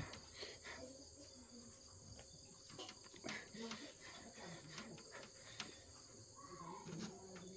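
Faint, steady high chirring of crickets, with soft scattered clicks and smacks of chewing close to the microphone.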